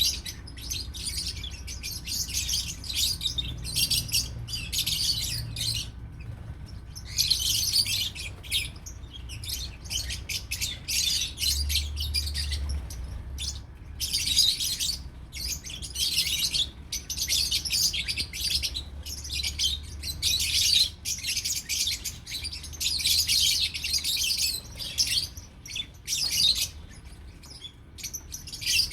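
Lovebirds chattering and tweeting in quick, high-pitched runs, with short pauses between them.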